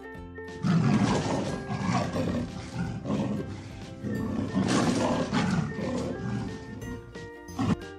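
Two long animal roars, each lasting about two seconds, over steady background music, with a short sharp sound near the end.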